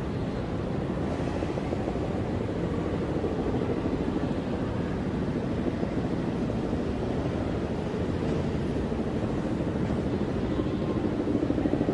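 Steady low rumble of city vehicles, swelling slightly near the end, with no sharp events.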